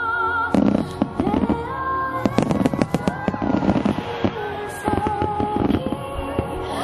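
Aerial fireworks shells bursting and crackling in quick succession, many sharp bangs over music with a held melody.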